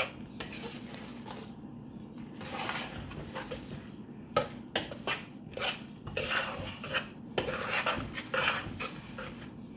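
A utensil scraping and clanking against a pan while stirring fried rice, in irregular strokes that come thicker and louder in the second half.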